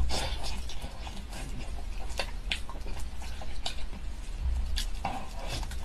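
Close-up wet eating sounds: soft, sticky chewing and lip smacks as a chili-oil-coated ball of sheep brain wrapped in tripe is bitten and pulled apart by gloved hands, with many short wet clicks. It gets denser and louder about five seconds in.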